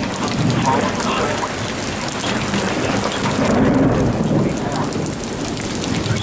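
Heavy thunderstorm rain pelting down on surfaces with many close drop spatters, under a low rumble of thunder that swells about halfway through.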